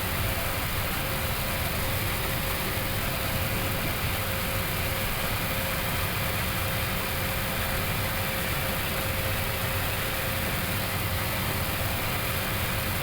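Steady flight-deck noise of an Airbus A321neo with its engines at idle on the ground: a low engine hum under an even air-conditioning and ventilation hiss, with a faint steady whine.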